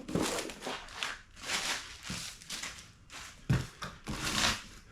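Rustling and handling of parts packaging in repeated short bursts, with one loud thump about three and a half seconds in.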